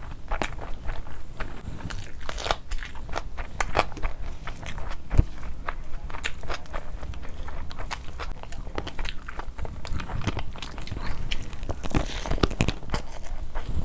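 Close-miked chewing and mouth sounds of a person eating handfuls of spicy fried rice and chicken, with irregular sharp clicks throughout. One thump stands out about five seconds in.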